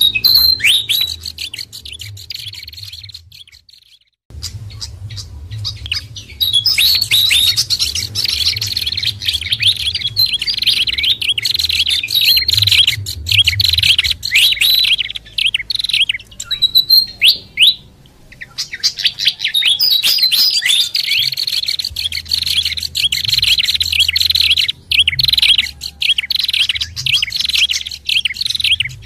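Bird-lure recording of small songbirds (fantail, babbler and prenjak mixed): dense, rapid, high-pitched chirping and twittering, over a faint low hum. It breaks off briefly about four seconds in and again about eighteen seconds in.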